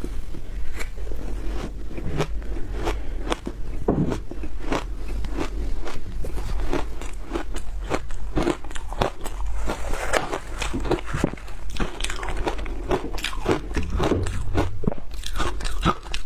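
Frozen food bitten and chewed close to the microphone: a dense run of crisp crunches and cracks, several a second.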